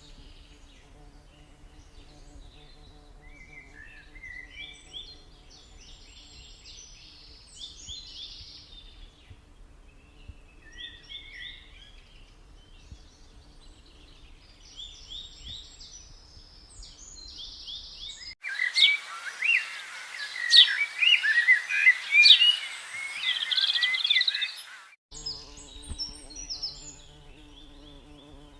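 Wild birds chirping and calling in short repeated phrases over the steady low buzz of stingless bees. A little past halfway, a much louder stretch of dense birdsong cuts in suddenly without the buzz, then cuts out again about six seconds later.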